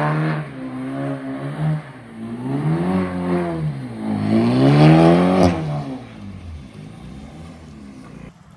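BMW sedan engine revving up and down in repeated swells as the car is slid sideways on wet pavement, with a short sharp click about five and a half seconds in, then settling to a lower, quieter steady note.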